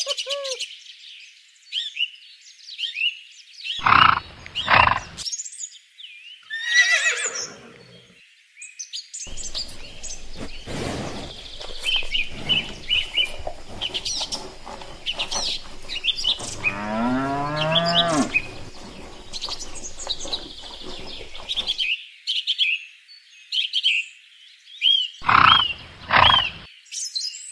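Birds chirping and tweeting in many short high calls throughout. A few louder calls break in, one of them rising in pitch, and a steady low hum runs under the middle stretch.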